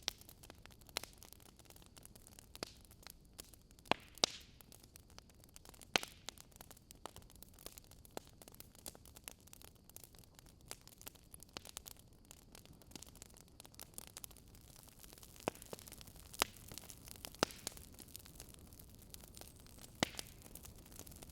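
Wood fire burning in a fireplace, crackling and popping irregularly over a low, steady hiss, with a few louder pops.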